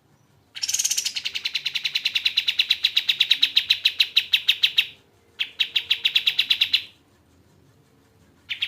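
Pied triller (kapas tembak) singing in fast trills of sharp, chattering notes at about ten a second. A long trill of over four seconds is followed by a shorter one about five seconds in, and another begins near the end.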